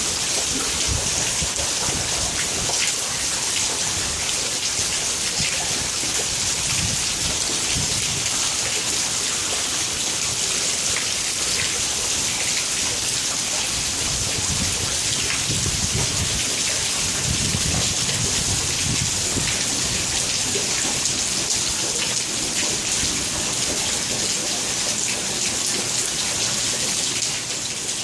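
Heavy rain pouring down, a steady hiss of drops on pavement and water. A low rumble swells and fades around the middle.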